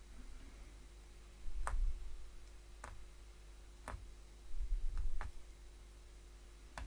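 Hollow punch needle being stabbed through fabric, giving five sharp ticks roughly a second apart, with a few dull low bumps from handling the material.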